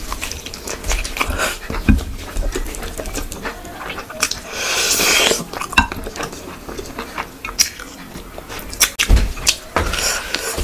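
Close-miked eating sounds of someone eating with her fingers: chewing and lip-smacking, with many short wet clicks. A longer slurping sound lasts about a second near the middle.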